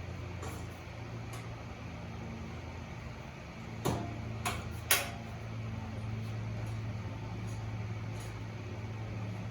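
A steady low machine hum, with three sharp knocks in quick succession about four seconds in.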